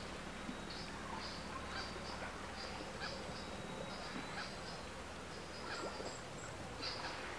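Small birds chirping: short, high chirps repeating irregularly, about one or two a second, over a faint steady hiss.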